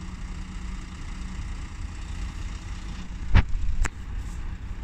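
A vehicle engine idling with a steady low rumble, broken by two sharp knocks about half a second apart, three and a half seconds in.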